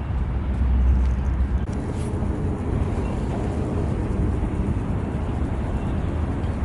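Freight train passing: a deep, steady diesel locomotive drone that stops about two seconds in, then a steady rumble of the freight cars rolling over the rails.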